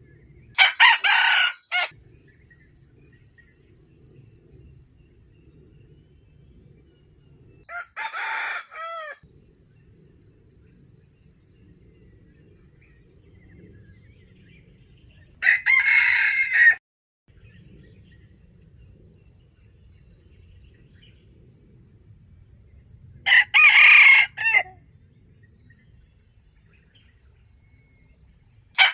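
A rooster crowing four times, each crow about a second and a half long and roughly seven to eight seconds apart, with another crow starting at the very end.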